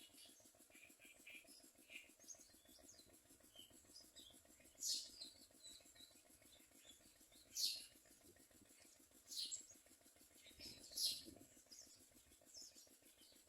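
Common mynas giving short, high-pitched chirps: about four louder calls a second or two apart among fainter ones, over a faint steady hum.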